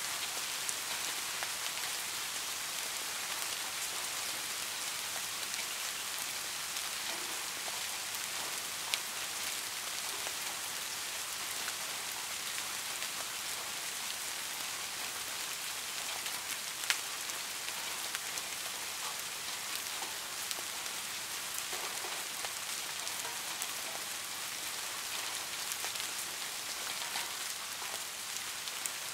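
Steady rain falling: an even hiss with scattered small drop ticks, and two sharper single ticks about nine and seventeen seconds in.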